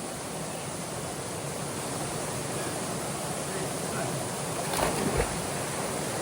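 Waterfall pouring into a rock pool: a steady rushing of falling water, with a couple of soft bumps about five seconds in.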